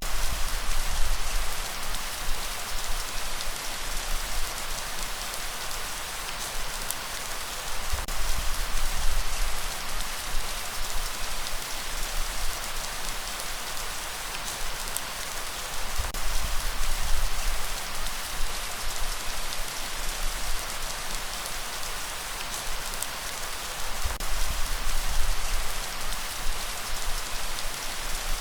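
Steady light rain: an even hiss of rainfall with scattered individual drop ticks. A low rumble swells and fades about every eight seconds.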